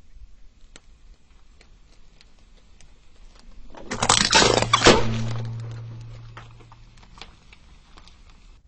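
A car tyre rolling over and crushing a crunchy object: a loud burst of cracking and crunching for about a second near the middle, with scattered small clicks before it. A low hum follows the crunch and fades out over about two seconds.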